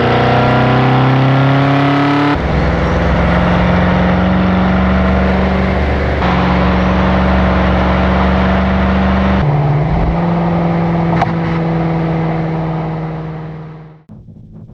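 BMW M6 Gran Coupe's twin-turbo V8 heard through its Akrapovič Evolution Line exhaust, recorded outside the car: its note rises as it accelerates for the first two seconds, then comes in short spliced pieces holding a steady note, fading out near the end.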